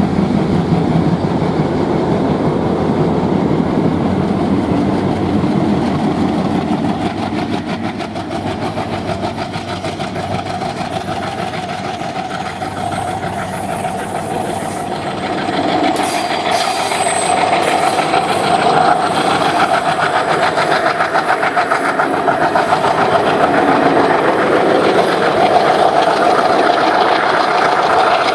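Two WDG-3A diesel locomotives running under power as they pull past, their low engine drone strongest at first. The passenger coaches then roll by with a rhythmic wheel clatter over the rail joints that grows louder toward the end.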